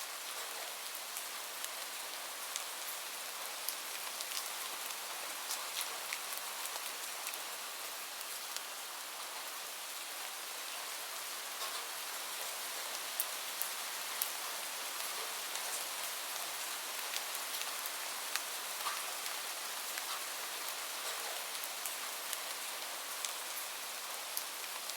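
Steady rain with scattered sharp crackles and pops from a wood fire.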